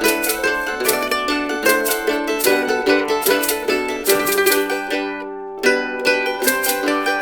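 A mandolin and an octave mandolin playing a plucked instrumental tune together. About five seconds in there is a brief pause where the notes ring out, then the playing starts again.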